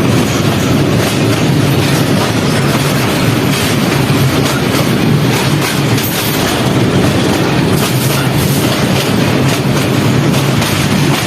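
Passenger train running, heard from on board while it crosses a railway bridge: a loud, steady rumble with a dense, continuous clatter of wheels over rail joints.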